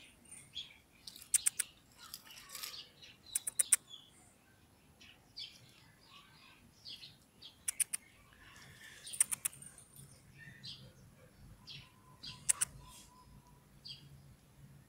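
Small birds chirping in short, scattered calls, with a few quick clusters of sharp clicks.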